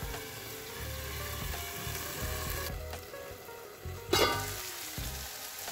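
Onion-tomato masala sizzling steadily in a covered cast-iron skillet, with a louder rush of sizzling about four seconds in. Faint background music plays underneath.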